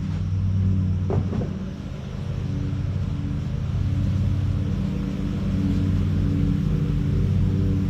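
Allis-Chalmers tractor engine running steadily at idle, with a brief couple of sharp knocks about a second in.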